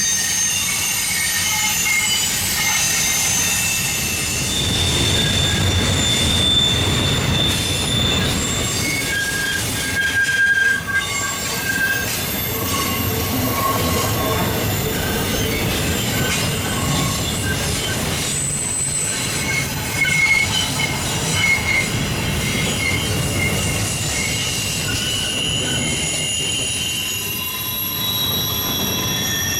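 Freight train cars rolling by, their wheels squealing on the rails in several high, overlapping tones that come and go and shift in pitch, over a steady low rumble.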